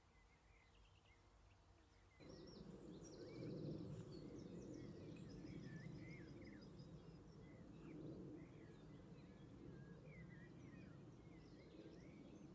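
Faint outdoor ambience of several small songbirds chirping and trilling. About two seconds in, a steady low rumbling hum joins in.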